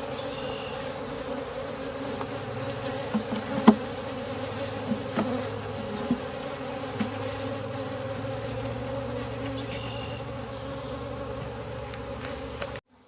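Honeybees buzzing around the hive in a steady hum, with a few short sharp ticks, the sharpest about four seconds in. The sound cuts off suddenly near the end.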